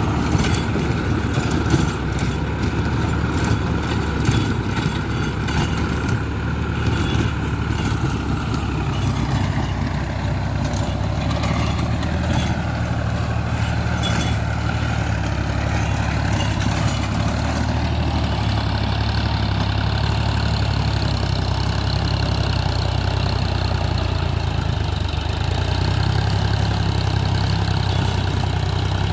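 Sonalika DI-35 tractor's diesel engine running steadily as it drives a rotavator, with some short clicks and knocks in the first several seconds.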